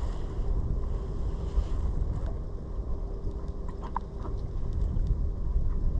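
Wind buffeting the microphone on a small boat drifting at sea, a steady low rumble with a faint hum, and a few small clicks and knocks about four seconds in.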